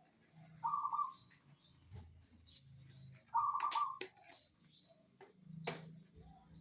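Zebra dove (perkutut) cooing: two short, rapid coo phrases, about half a second in and again at about three and a half seconds. A few sharp clicks fall between them.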